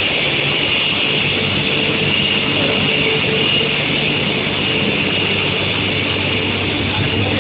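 Steady industrial machinery noise from a steel hot-rolling line and its electric furnace: a continuous hum under a constant high whine, with no break or change.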